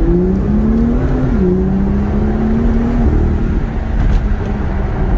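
BMW M2's N55 turbocharged straight-six accelerating, heard from inside the cabin. Its note rises, drops sharply about a second and a half in, climbs again, then falls and holds steady from about three seconds in.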